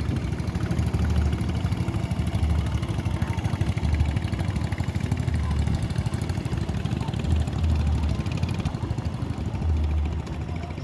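Motorboat engine running steadily at low revs, a low, even drone with a faint rhythmic swell.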